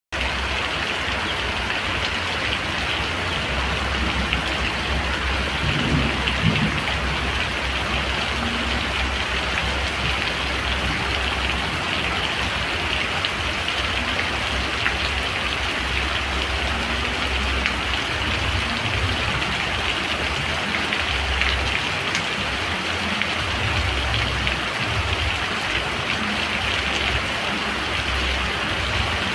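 Steady rain falling, an even hiss full of fine drop ticks. A low rumble underneath swells and fades throughout.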